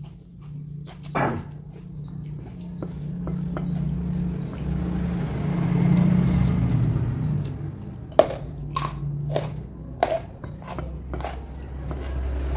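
Close-up chewing and crunching of raw vegetables and young jengkol: a continuous wet, mouthy noise that swells about halfway through, with a few sharp crunches near the start and again later on.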